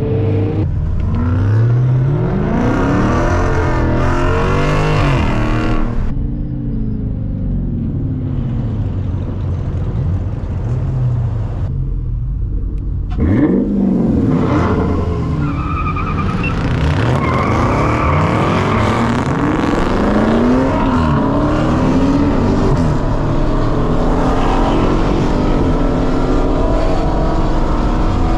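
Car engine revving up and easing off again and again, its pitch climbing and dropping many times.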